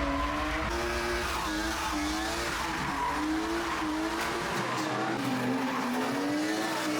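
Car engine held at high revs, the pitch rising and falling, with tyres squealing under wheelspin, as in a car drifting or doing doughnuts.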